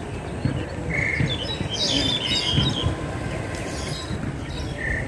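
Birds chirping: a short note about a second in, a busy cluster of high chirps near the middle, and another short note near the end, over low rumbling background noise.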